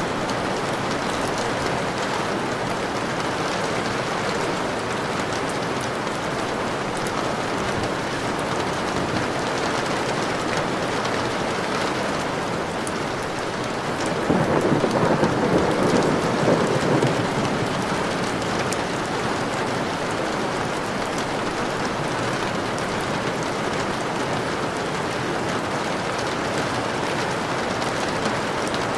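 Steady rain, with a low roll of thunder swelling for about three seconds around the middle.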